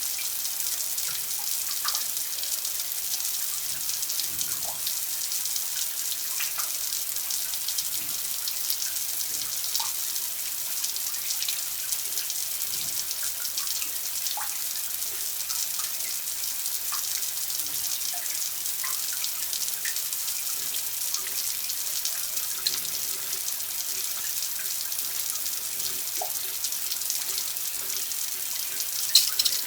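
Steady running water, like a tap left running: an even high hiss with scattered drips and splashes, and one louder splash near the end.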